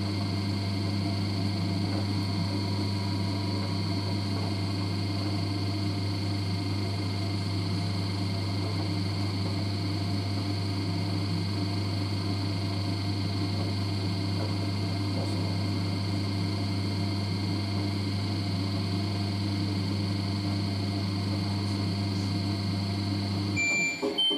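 LG DirectDrive F1496AD washer dryer running steadily in the last seconds of its dry cycle: a low hum with a faint high whine. It cuts off about a second before the end, and the machine's end-of-cycle tune of short beeping notes starts.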